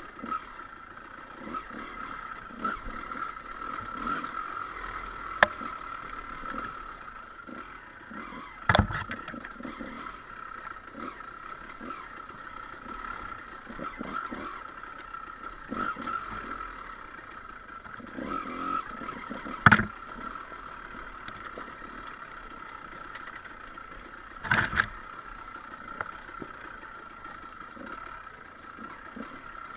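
Dirt bike engine running steadily on a trail ride, with three loud knocks from the bike jolting over bumps, about a third of the way in, two-thirds in and near the end.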